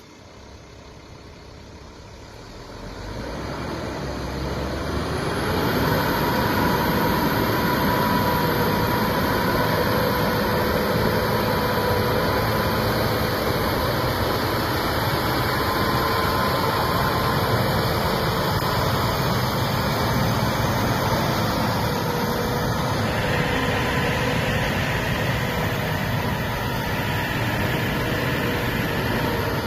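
Diesel engine of a Sinotruk HOWO 8x4 dump truck running steadily, with a faint steady whine over it. It grows louder over the first few seconds, then holds level.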